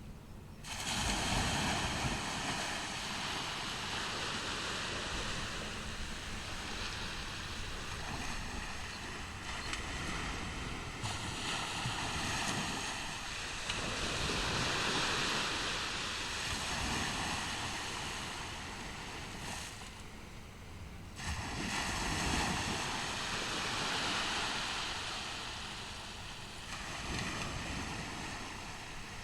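Ocean surf on a beach: waves break and wash up the shore in an even hiss that swells and ebbs, with loud surges about a second in and again about two-thirds of the way through.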